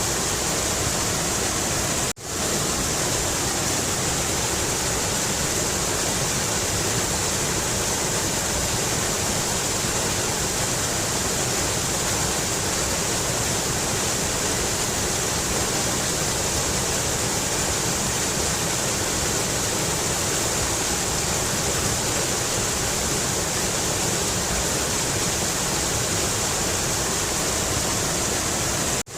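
Mountain river rushing steadily: a constant hiss of flowing water with no change in level, except for a brief dropout about two seconds in.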